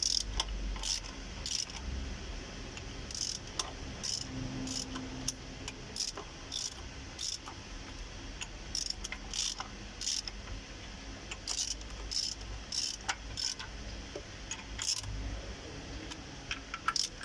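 Irregular sharp metallic clicks and clinks, about one or two a second, as a wrench tightens the bolts of an oil-seal installer tool evenly to press a Scania truck's rear crankshaft oil seal into place.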